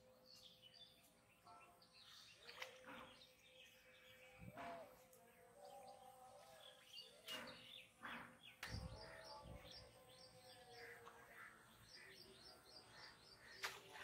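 Faint outdoor ambience of small birds chirping, with short calls and quick runs of repeated notes, and a few soft knocks and a low thump about nine seconds in.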